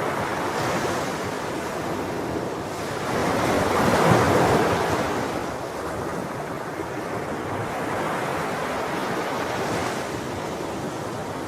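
Sea waves breaking and washing on the shore in a steady hiss of surf. One wave swells to its loudest about four seconds in and then recedes, and smaller surges follow near the end.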